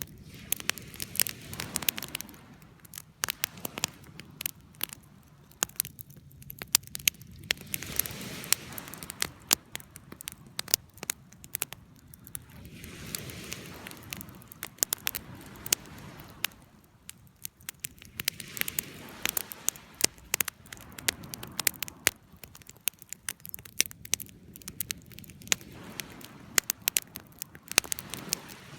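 Wood fire burning, with dense, irregular crackles and pops over a soft rushing of flames that swells and fades every few seconds.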